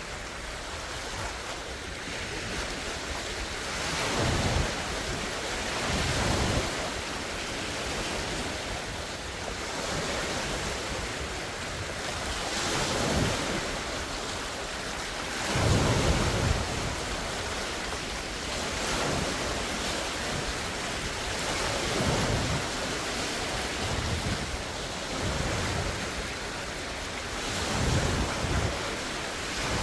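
Large wind-driven lake waves washing and splashing against the shore, with louder surges coming irregularly every few seconds over a steady wash. Wind buffets the phone's microphone.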